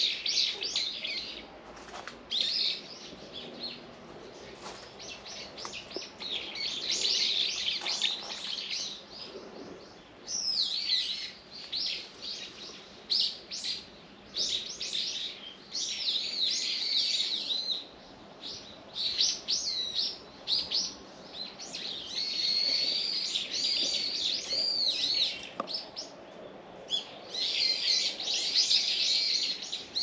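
Small birds chirping in repeated bursts of quick, high calls, separated by short pauses.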